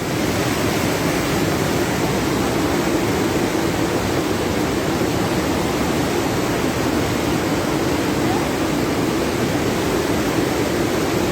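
Floodwater rushing steadily, an even unbroken roar of fast-moving water.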